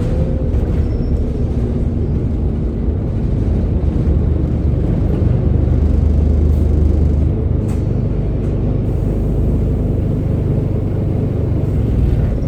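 Scania N230UD double-decker bus's five-cylinder diesel engine running under way, heard on board as a steady low rumble that swells a little past the middle. A couple of short clicks come a little over halfway through.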